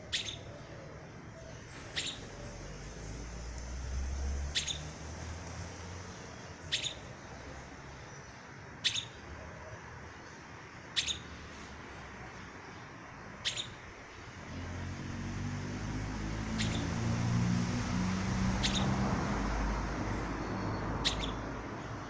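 A bird repeating one short, high chirp about every two seconds, over a steady hiss of rain. A low rumble swells up about two-thirds of the way through.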